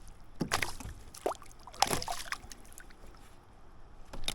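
A hooked fish splashing at the water's surface beside a kayak: a few separate splashes and sloshes, the loudest around the middle and one more near the end.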